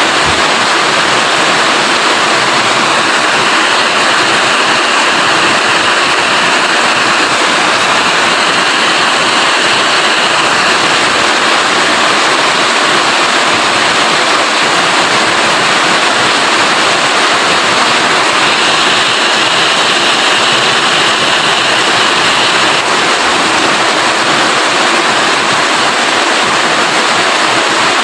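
Heavy rain falling steadily, a dense, even hiss without letup.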